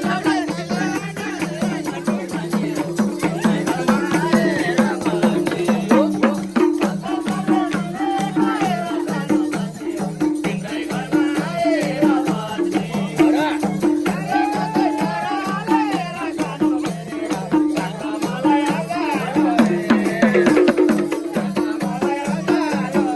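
Nepali dohori folk music played as an instrumental passage: a drum beats a fast, steady rhythm on two pitches under a wavering melody line.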